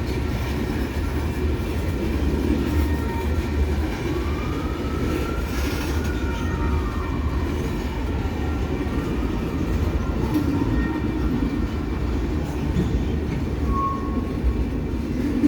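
Freight train cars rolling past on the rails in a steady rumble. Between about four and eight seconds in, a faint whine rises and then falls in pitch.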